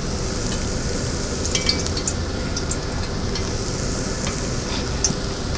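Chopped shallots frying gently in butter in a wide pan: a steady sizzle with faint, scattered small crackles.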